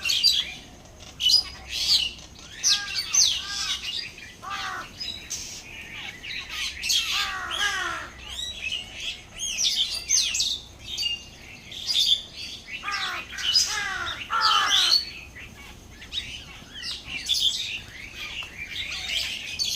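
Several birds calling over and over, overlapping calls that glide in pitch, coming in clusters every second or two.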